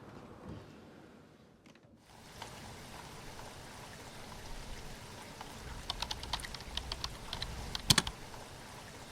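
Steady rain falling outside an open window, with a run of sharp ticks from about two-thirds of the way in as drops strike hard surfaces, one louder tap near the end.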